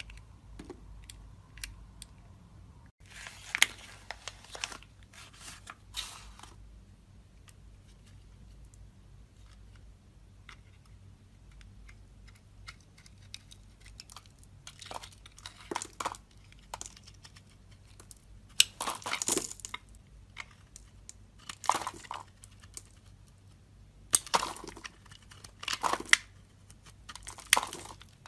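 Knife cutting and scraping into a bar of soap: crisp crunching, crinkling strokes in short clusters of a second or two, with pauses between them.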